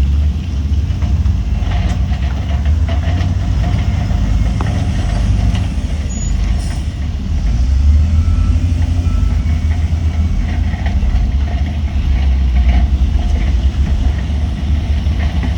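Heavy diesel earthmoving machinery running with a deep, steady engine rumble, with a few brief knocks heard over it.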